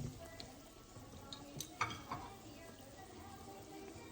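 Faint kitchen handling sounds: a few light knocks and clicks of utensils and cookware.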